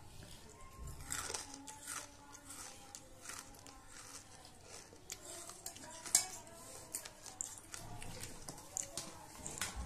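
Close-up crunching and chewing of banslochan (tabasheer, the chalky silica from bamboo) in the mouth: irregular crisp crackles, with one sharper crunch about six seconds in.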